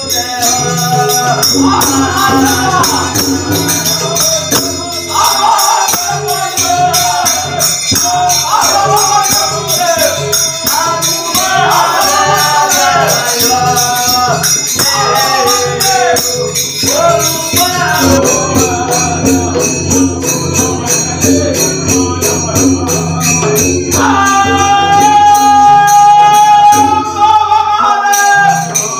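Bhajan singing accompanied by a hand drum keeping the thekā rhythm and jhal hand cymbals clashing continuously. Near the end the melody settles on one long held note.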